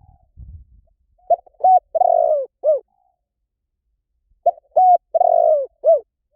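Spotted dove cooing: two phrases of about four coos each, the second coming a couple of seconds after the first.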